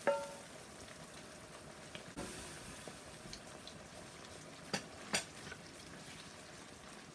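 Mushrooms frying in coconut oil in a pan, a faint steady sizzle. A utensil clinks against the pan at the start with a brief ring, and there are a few sharp knocks about five seconds in.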